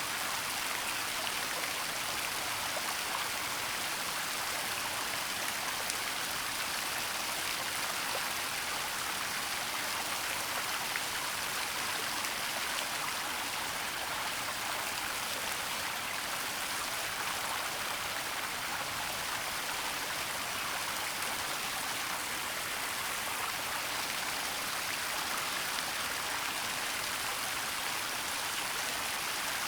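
Waterfall and flowing stream water, a steady hiss of falling and rushing water with no breaks.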